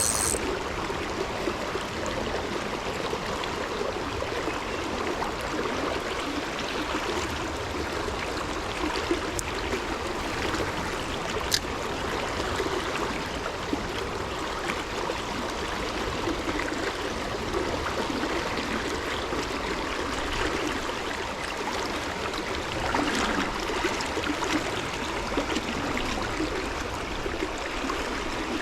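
Stream water running steadily, with a single sharp tick about eleven seconds in.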